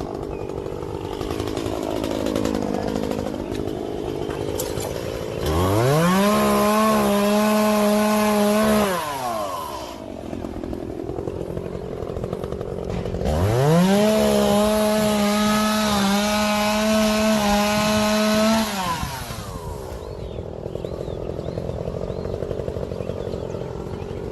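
Chainsaw idling, then revved to full throttle twice, each time for about four to five seconds and then dropping back to idle, while cutting downed tree limbs.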